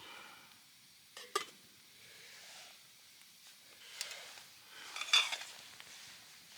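Metal utensils and cookware clinking and scraping, three short knocks about a second, four seconds and five seconds in, the last the loudest with a brief ring, over a faint hiss.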